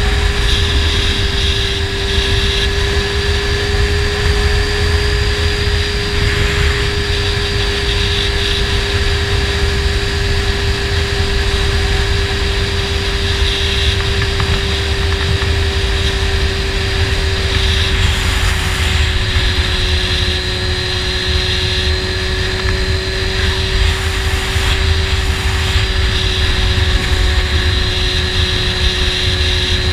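Honda CBR600 inline-four sport bike with a slip-on exhaust, cruising at a steady engine speed. The note eases down slightly about two-thirds of the way through. Heavy wind rush on the microphone runs underneath.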